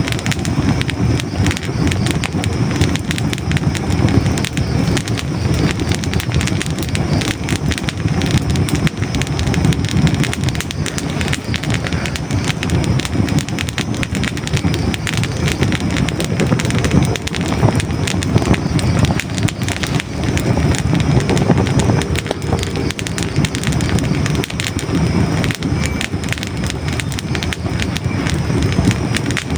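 Hardwood logs burning in a fireplace: a steady low rumble of flames with dense, continuous crackling and small pops throughout.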